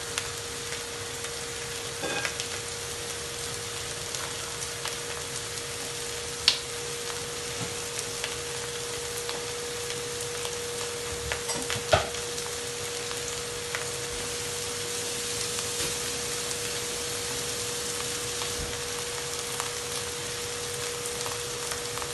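Sliced onions frying in oil in a pan, a steady sizzle, with a steady hum underneath. A few light clicks and knocks come through, the sharpest about six seconds in and near the middle.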